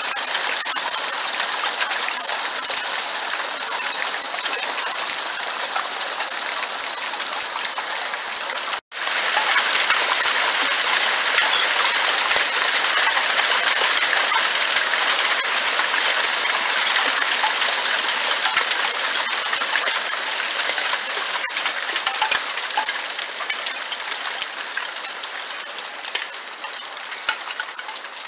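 Small hailstones falling hard and thick, a dense steady patter of many tiny ticks, cut off for an instant about nine seconds in before resuming, easing slightly toward the end.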